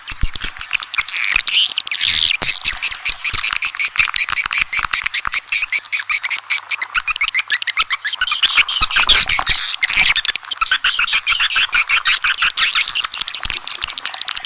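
Swiftlet call recording: a dense, continuous chatter of edible-nest swiftlets, rapid clicking twitters and chirps overlapping with no pause. It is the kind of lure sound played from a swiftlet house to draw the birds in to nest.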